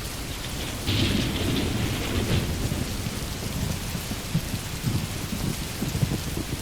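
Heavy rain falling steadily, with a clap of thunder breaking in about a second in and rumbling on through the rest.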